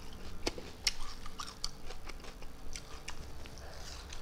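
Close-up chewing and lip-smacking: a run of small wet mouth clicks, several a second, as a mouthful of rice and small fish is chewed with the mouth open.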